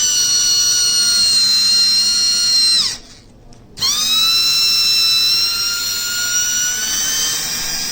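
Old Sears Craftsman cordless drill, running on a lithium battery, spinning freely with a high whine. It winds down and stops about three seconds in, then starts again less than a second later and spins back up to speed.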